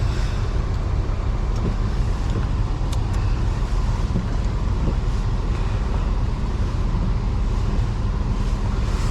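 2005 Toyota Highlander's 3.3-litre V6 idling during a cold warm-up, a steady low rumble.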